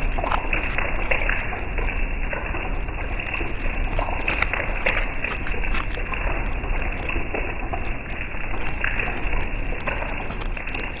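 Heavy thunderstorm rain: a steady hiss with many short, sharp crackles of drops hitting.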